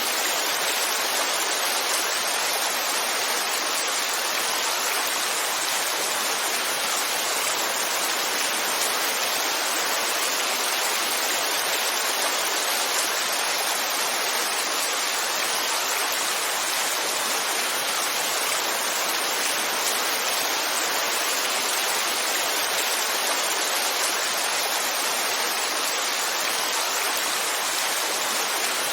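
Heavy rainfall as a steady, dense hiss with no individual drops or thunder standing out.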